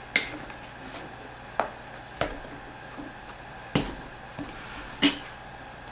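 Shoe tree being pushed and fitted into a sneaker: about five separate knocks and clicks, spaced a second or so apart.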